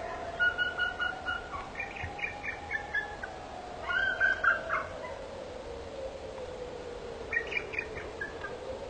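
Birds calling in four short bursts of quick repeated notes, over a steady low tone that slowly rises and falls in pitch.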